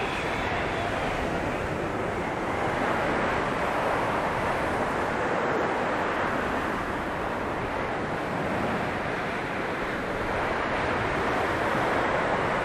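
Blizzard wind blowing in a steady dense rush, swelling and easing slightly in slow gusts.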